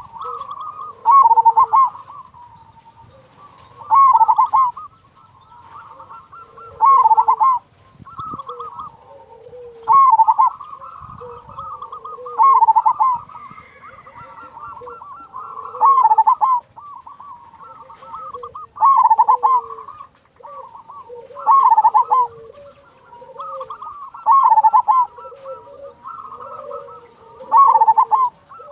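Zebra doves (perkutut) cooing. One loud, bubbling call comes back about every three seconds, about ten times, over softer overlapping coos from other doves.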